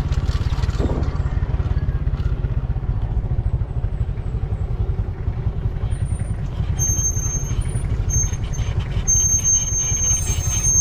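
Motorcycle engine running steadily while riding, with a low rumble. A thin high whine comes and goes in the second half.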